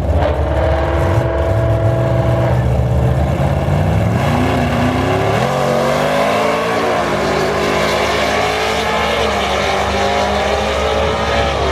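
Drag-racing car's engine at high revs, held steady at first, then climbing in pitch from about four seconds in and rising again in steps as it accelerates down the strip.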